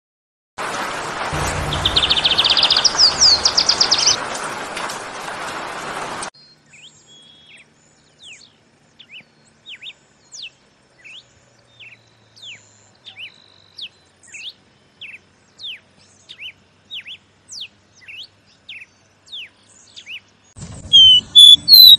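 Red-crested cardinal singing a slow series of short, sharp falling notes, about two a second. It is preceded by a small seedeater's rising trill over heavy recording hiss, and near the end a louder caboclinho starts singing.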